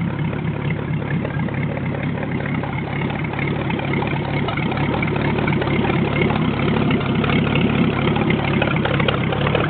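Ford flathead V8 idling steadily.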